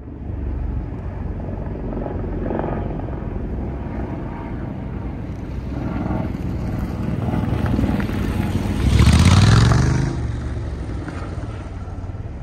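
A vehicle engine running steadily, swelling to its loudest about nine seconds in and easing off again by ten seconds.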